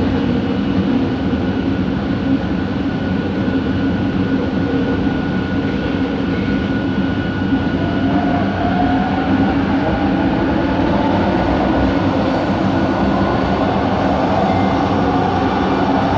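Bombardier Innovia ART 200 light-metro train heard from on board while running: steady rolling and running noise with a constant whine from its linear induction motor drive. A tone rises and falls about halfway through and again near the end.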